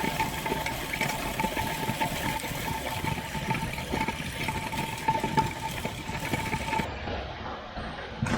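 Farm machine engine running steadily, with a constant high whine over the engine noise; about seven seconds in the sound changes abruptly and loses its hiss.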